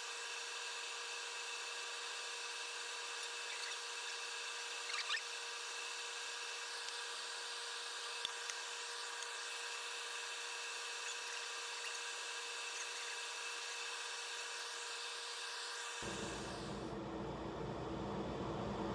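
A power tool running steadily and faintly: a high whine of fixed tones over hiss. About sixteen seconds in it gives way to a deeper, fuller sound.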